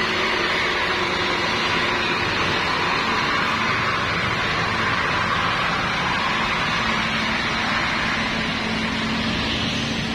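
Truck engine running steadily: a continuous hum with a constant whine above it.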